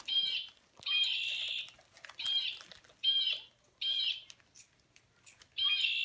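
Recorded bird calls played from toy birds, about six short calls one after another, roughly one a second.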